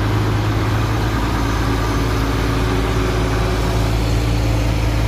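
A big truck's engine running steadily: a low, even drone with no change in speed.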